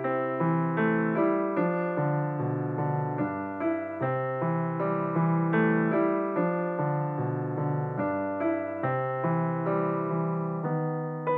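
Piano music: a melody of struck, decaying notes over longer-held bass notes.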